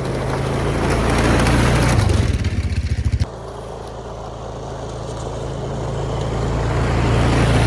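Quad (ATV) engine running under way, getting louder, with a pulsing stretch about two to three seconds in before the sound drops sharply and then builds again.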